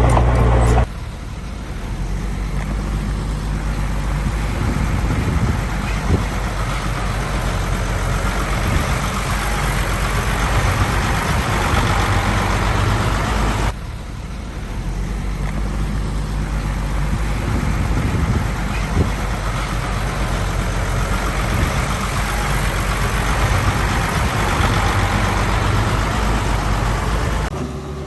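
Heavy diesel engines running steadily under load, a deep rumble with a rough noisy top. The sound changes abruptly about a second in, again about halfway through and near the end.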